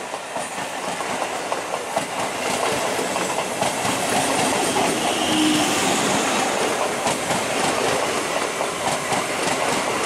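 Electric multiple unit (EMU) local train passing close by at speed: a steady rumble of the coaches with the wheels clicking over the rail joints, the clicks coming thicker in the second half.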